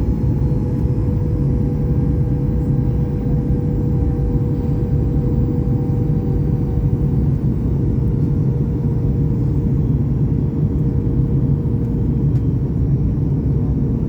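Cabin noise inside a Boeing 737 MAX 8 in flight: a steady, loud rumble of airflow and CFM LEAP-1B engines, with an engine whine that drifts slowly down in pitch.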